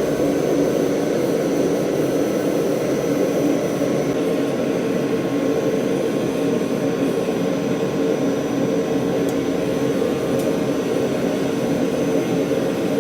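A steady, even roar from running shop equipment, with a faint high whine over it.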